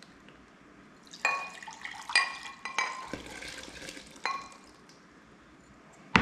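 Kitchenware clinking and clattering, with ringing metal or glass strikes: one about a second in, a cluster over the next two seconds, another a second later, and a sharp, loud knock at the end.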